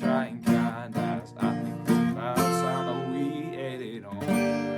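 Acoustic guitar strummed in a steady rhythm, with a voice singing a held, sliding phrase partway through.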